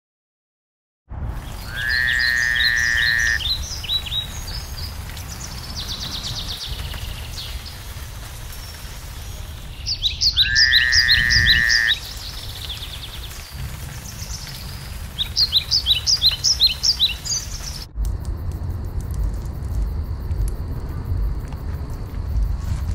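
Songbirds singing: repeated runs of rapid, high chirps, twice joined by a louder, lower held note. Near the end the birdsong stops and a steady low outdoor rumble remains.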